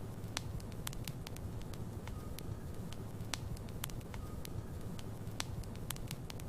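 Logs burning in a fireplace: sharp, irregular crackles and pops over a steady low rumble of the flames.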